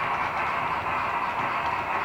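Sound decoder of a Roco H0 model class 44 three-cylinder steam locomotive playing its running steam sound through the model's small loudspeaker, a steady thin hiss with little bass.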